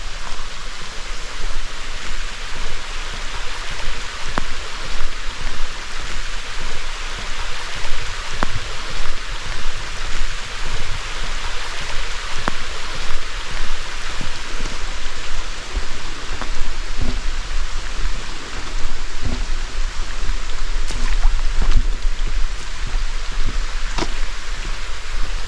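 A stream rushing steadily, with scattered low thumps and faint clicks over it.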